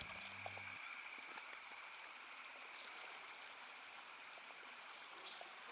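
Faint, low-level ambience: a soft, even, water-like hiss with a steady high-pitched tone running through it. A low sustained note dies away under a second in.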